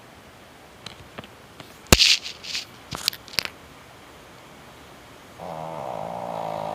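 Pug snoring: one long, buzzing snore starts about five and a half seconds in. Earlier, between about two and three and a half seconds in, a few sharp clicks and short hisses are the loudest sounds.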